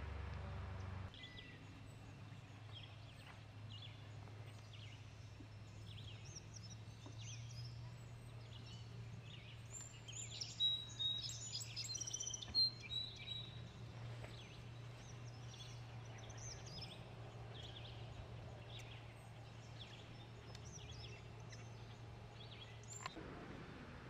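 Small birds chirping and calling, short high calls repeating about once a second, with a louder flurry of calls around the middle, over a steady low hum.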